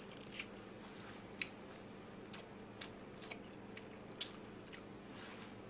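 Faint eating sounds of a man chewing fried chicken, with scattered soft clicks and smacks, about seven in all, over a low room hum.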